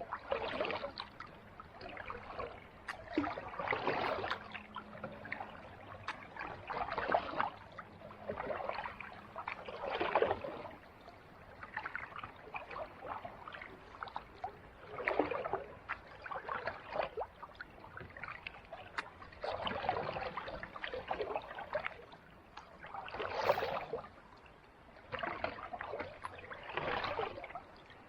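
Kayak paddle strokes dipping and splashing in calm sea water. There is a stroke about every one and a half to two seconds, with a lull of a few seconds near the middle.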